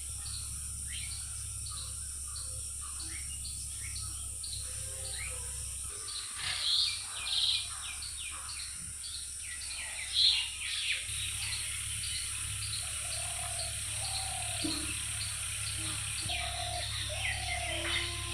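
Birds chirping and calling: a steady run of short, high chirps about twice a second, with a few louder bursts of calls and some lower whistled notes later on. A steady low hum runs underneath.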